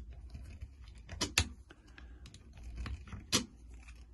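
Hand screwdriver driving a screw into a plastic part of an RC car chassis, cutting its thread. The work makes irregular small clicks and taps, a few of them louder.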